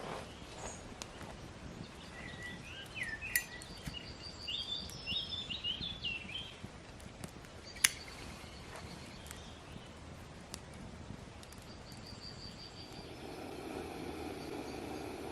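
Songbirds singing in short, twisting phrases and high trills, with a few sharp clicks, one louder about eight seconds in. Near the end a steady low rumble comes up beneath them.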